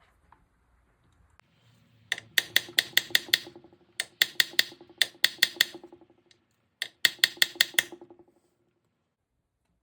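Rapid metal-on-metal taps of a hammer on a punch, expanding a Welch plug in the front of a Ford toploader 4-speed transmission case. The taps come in three quick runs of about six a second, each with a metallic ring.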